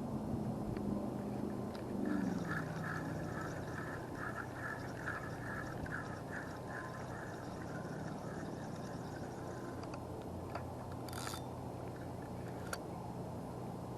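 Steady wind noise at the creek, with a quick run of chirping notes for several seconds starting about two seconds in and a brief rustle about eleven seconds in.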